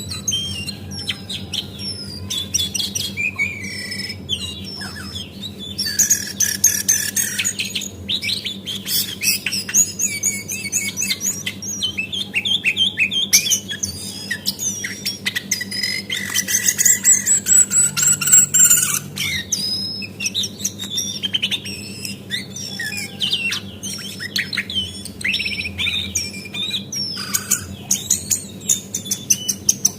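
Female lesser shortwing (cingcoang, jongkangan coklat) singing a rapid, varied stream of chirps, whistles and trills, over a steady low hum.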